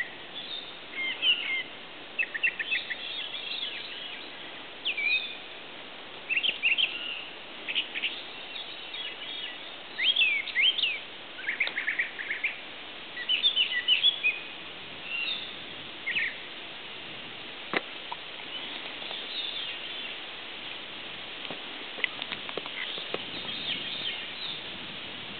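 Songbirds singing and calling, many short chirps and warbled phrases overlapping, thicker in the first half and sparser later, over a steady hiss. A single sharp click about eighteen seconds in.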